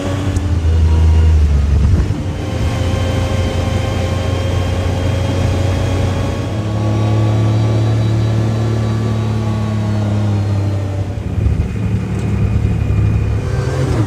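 Side-by-side UTV engine running under load, its pitch rising and falling as it revs up and eases off while driving.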